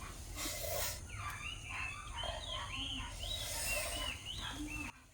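Birds chirping busily, many short rising-and-falling calls overlapping, with a brief rustle about half a second in; the sound cuts off abruptly near the end.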